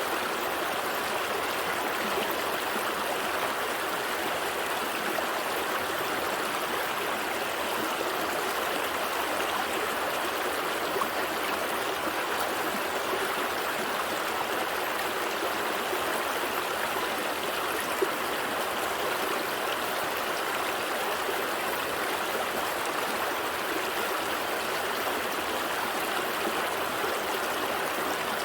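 A gentle stream flowing steadily, water trickling and burbling over rocks with an even, unbroken rush, and one faint tick about two-thirds of the way through.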